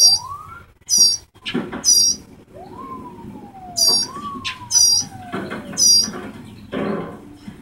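A bird's sharp, high-pitched chirps, repeated about once a second.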